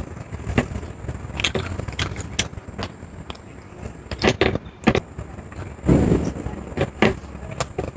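Close-miked eating: chewing, lip smacks and wet mouth clicks at irregular moments, over a steady low rumble.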